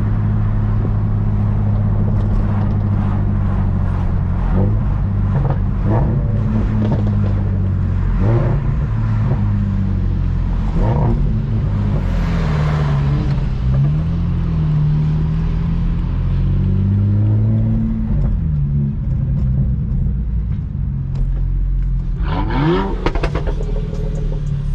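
Car engine running steadily, its pitch dipping and rising a few times in the middle, with a quick rev rising near the end.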